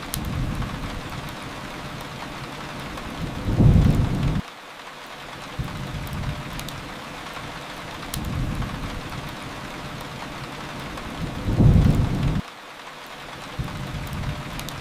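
Steady rain hiss with low rumbling thunder. Two louder low rumbles, about eight seconds apart, each cut off suddenly. A few faint crackles from a fireplace.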